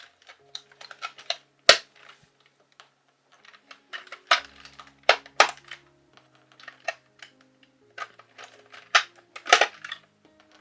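Irregular sharp plastic clicks and snaps from a computer keyboard's keys being handled, with a few louder snaps, over background music.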